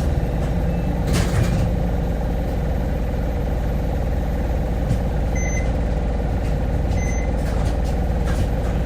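Hino Blue Ribbon hybrid city bus heard from inside the cabin, its diesel engine running with a steady low drone. Two short high beeps sound about a second and a half apart past the middle.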